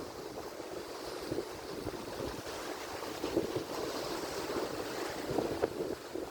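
Atlantic Ocean surf: a steady wash of breaking waves with small swells in loudness.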